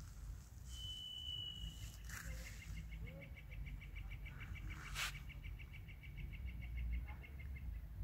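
A songbird singing: one high, held, slightly falling whistled note, then a long, even trill of rapid repeated notes lasting about five seconds. A sharp click about five seconds in, over a steady low rumble.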